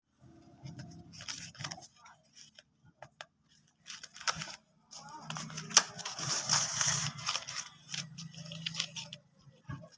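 Packaging being handled and opened: sharp clicks and rustling, with a longer, denser stretch of rustling or tearing from about halfway through.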